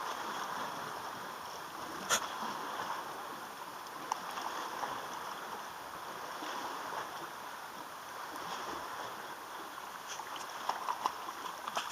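Steady wash of water lapping along the shore, with a few short sharp clicks and taps, one about 2 seconds in and a small cluster near the end.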